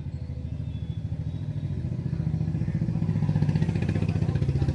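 An engine idling with a steady low pulsing, growing somewhat louder about two seconds in.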